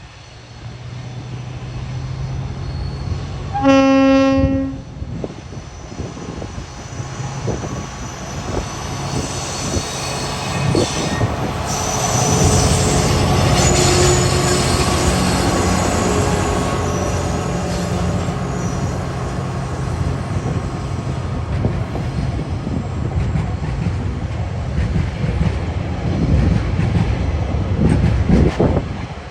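Diesel locomotives of a TasRail coal train passing over a level crossing. One horn blast about four seconds in warns the road crossing. Then the engines grow louder as the locomotives go by, and the wagons follow with wheel squeal and clickety-clack over the rail joints.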